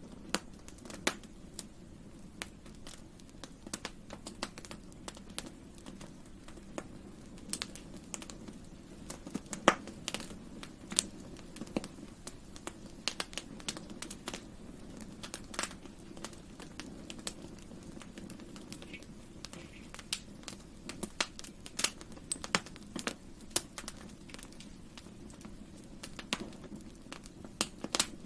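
Wood campfire crackling: irregular sharp pops and snaps over a steady low rumble of burning, with one louder pop about ten seconds in.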